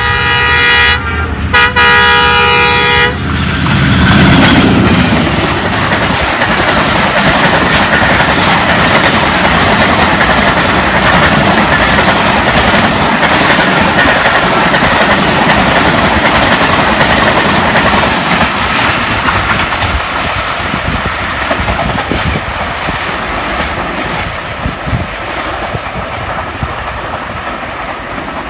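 Diesel locomotive's horn sounding as the express approaches: a blast that breaks off about a second in and a second blast that ends about three seconds in. Then the loud pass-by of the train at high speed, first the locomotive and then a long run of passenger coaches with rapid wheel clatter over the rail joints, slowly fading near the end as the last coaches go by.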